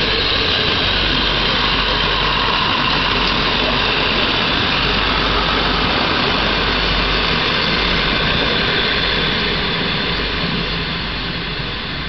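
Regional passenger train passing close by, its engine and wheels running steadily. The sound eases off near the end as the train moves away.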